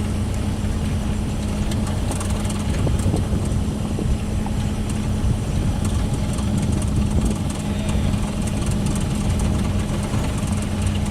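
Engine of a small machine running steadily at constant speed, with an even hum.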